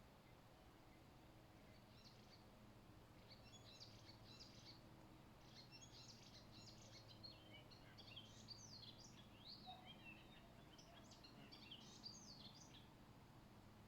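Faint birdsong: quick, high chirps and twittering notes in a string of phrases, starting about two seconds in and stopping shortly before the end, over a low steady hum.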